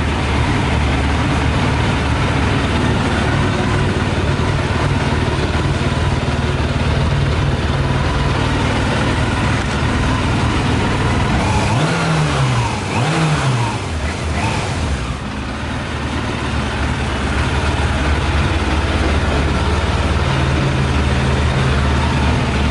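Yamaha YZF 600R's carbureted inline-four engine running steadily on 40% whisky in its tank instead of petrol. About halfway through, its pitch rises and falls twice in quick succession.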